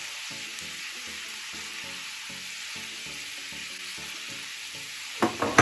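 Salmon frying in an oily chili and soy sauce in a pan, a steady sizzle. Near the end come a few sharp knocks.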